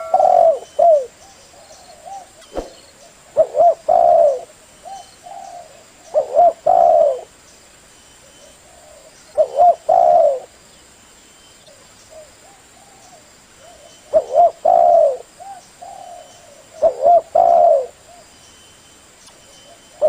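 Spotted dove (tekukur) cooing: a short, repeated phrase of a few low coos, given about six times with pauses of two to three seconds between them.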